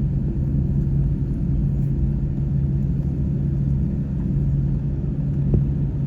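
Steady low rumble and hum of a jet airliner's cabin with the engines at idle while the aircraft taxis after landing, with a faint click about five and a half seconds in.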